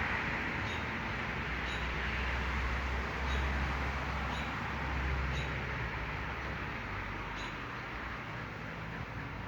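Steady outdoor background noise with the low rumble of passing road traffic, swelling and fading over a few seconds. A faint high tick repeats about once a second throughout.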